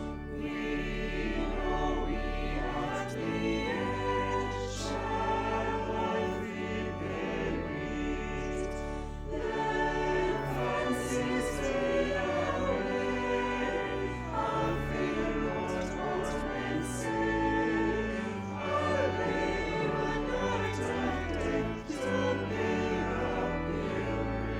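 Choral music: a choir singing with instrumental accompaniment and sustained bass notes.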